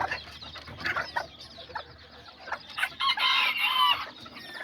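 Kikiriki chickens clucking and calling in their pens: many short calls throughout, with a louder burst of calls about three seconds in.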